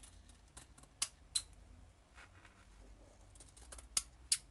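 Small objects being handled at a work table: a scatter of light, sharp clicks and ticks, with louder clicks about a second in, again half a second later, and twice near the end.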